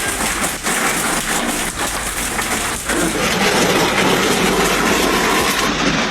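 Hail and heavy rain pelting hard surfaces: a loud, dense clatter with separate hits audible in the first few seconds. The sound changes abruptly to a thicker, steadier rush about three seconds in.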